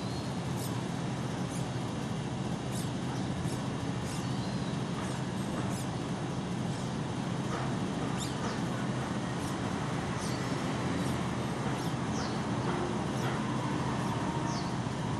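Nestling birds cheeping: thin, high, falling peeps repeated at irregular intervals, over a steady low hum.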